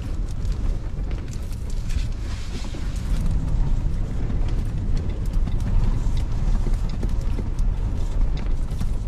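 Strong gusting wind buffeting the microphone as a heavy low rumble, with scattered small knocks and rattles.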